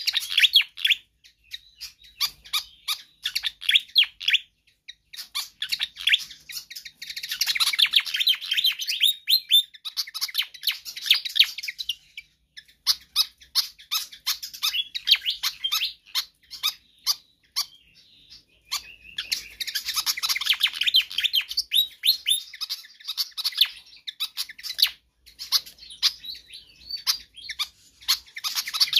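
Sikatan kipas songbird singing a fast, busy chattering song of quick high notes, in dense bouts of a few seconds each, with scattered single notes between bouts.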